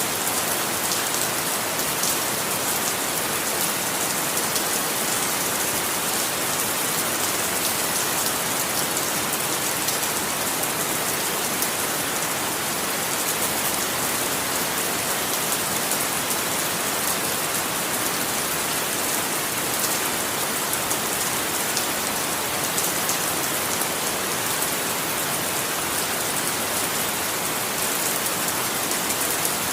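Steady rain falling, an even hiss with fine drop ticks and no thunder or change in strength.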